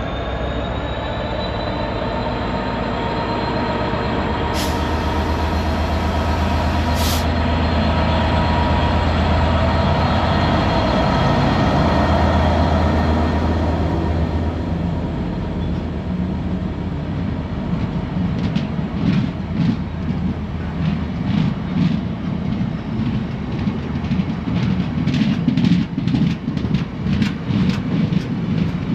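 A train passing close by: first a steady engine drone whose pitch rises slightly, with two sharp clicks. Then, from about halfway, a rough rumble and a regular clatter of wheels over the rail joints.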